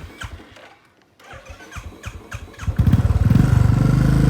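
A motor vehicle engine starts about three seconds in and runs steadily, after a few light clicks.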